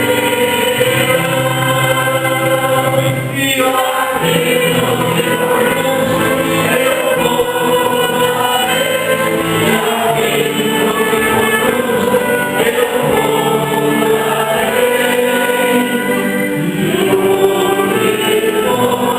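Church choir singing a hymn, voices holding long sustained notes.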